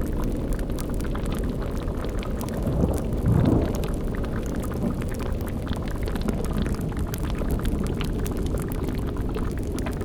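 Layered spooky ambience: a low rumbling drone with a cauldron bubbling and crackling over it, and a brief louder swell about three seconds in.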